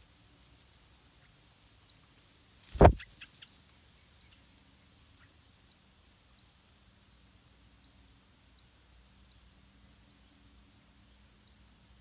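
Yellow-vented bulbul nestlings begging: a string of thin, high chirps, each falling in pitch, about one every three quarters of a second. A single loud thump about three seconds in, as the parent bird takes off from the nest.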